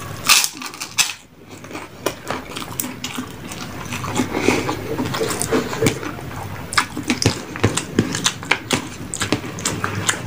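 Close-up eating: wet chewing of a rice and fish curry meal with many short, sharp crunches and clicks.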